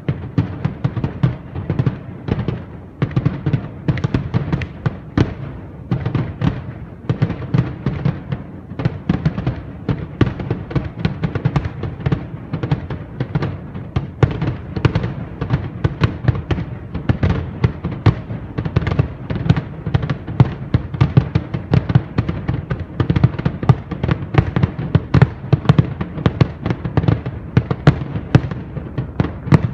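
Fireworks display firing a dense, continuous barrage of shells: many bursts and crackling reports every second, growing denser toward the end.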